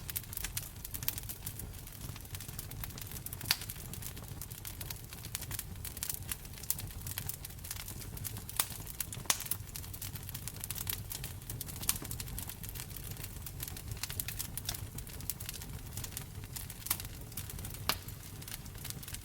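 Wood fire crackling in a fireplace: irregular sharp pops and snaps, several louder ones scattered through, over a low steady rumble.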